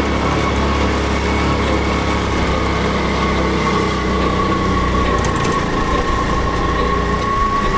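Motor vehicle running steadily: a low engine rumble with a constant high-pitched whine over it.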